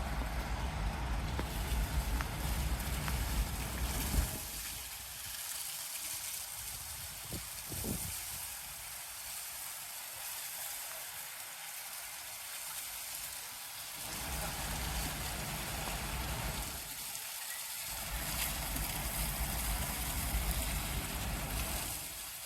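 High-pressure water truck spraying water, a steady hiss of spray, with the truck's engine rumbling low underneath for the first few seconds and again in the second half.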